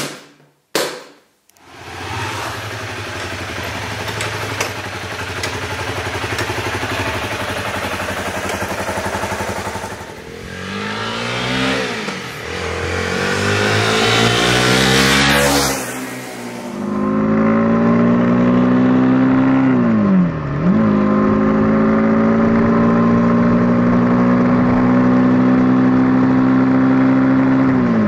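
Honda CBR250 motorcycle engine after a jump start: a few clicks, then the engine catches and runs, rising in pitch as it revs. Later it pulls hard under acceleration, its note climbing steadily with sudden drops at the gear changes.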